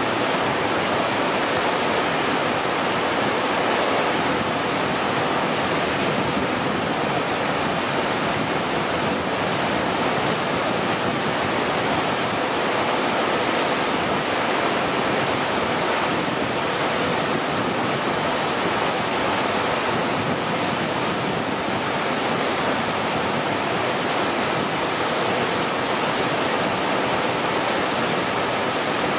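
Torrential rain pouring down, a loud, steady, even hiss.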